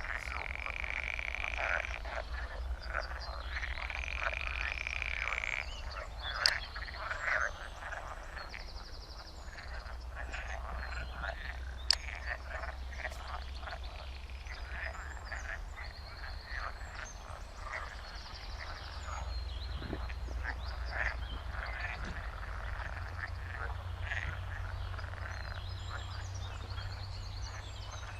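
Chorus of many frogs croaking at once, short overlapping calls without a break, over a low steady rumble, with a sharp click about twelve seconds in.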